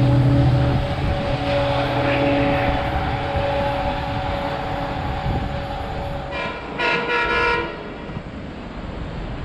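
An LIRR diesel-hauled train of bilevel coaches running away past the platform, its rumble and steady engine tones fading. Near the end a train horn sounds, a short blast followed by a longer one.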